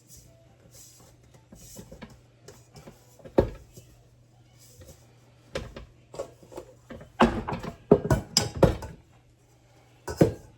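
Kitchen handling noises: scattered knocks and clatters of a bowl and utensils being moved on the counter, with a busier run of clatter a little past the middle, over a faint steady hum.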